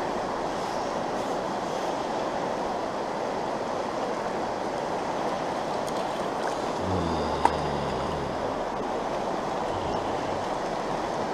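Steady rush of a small stream's flowing water. About seven seconds in, a brief low rumble sinks slightly in pitch, with a single sharp click.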